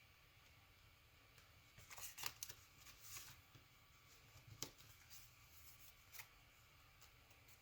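Faint paper rustling and crinkling as a sheet of origami paper is folded and creased by hand, with a cluster of crackles about two to three seconds in and a couple of single soft ticks later.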